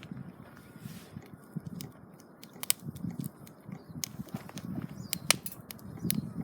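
Wood fire crackling in a fire pit, with irregular sharp pops over a low rumble of the flames.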